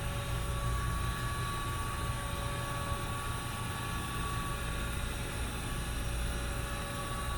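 A steady low machine hum with a faint, steady high whine.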